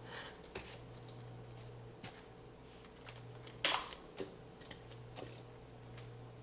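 Scattered light clicks and taps of things being handled, with one louder knock about three and a half seconds in, over a steady low hum.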